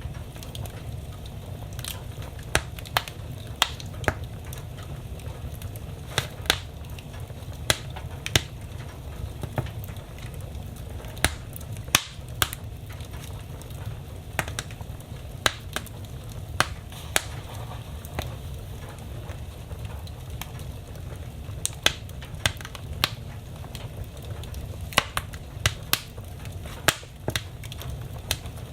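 Fire burning in a fireplace, crackling: irregular sharp pops and snaps, about one or two a second, over a steady low rumble of the flames.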